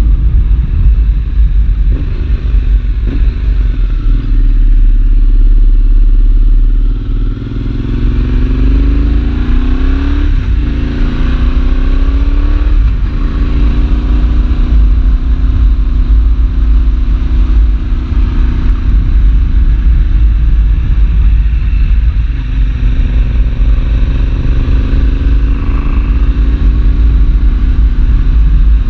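Yamaha Tracer 7's 689 cc parallel-twin engine through a full GPR exhaust with dB-killer, heard on board while riding, with heavy wind noise on the microphone. The engine runs steadily at first, then pulls up in pitch with upshifts about ten and thirteen seconds in, and then cruises steadily.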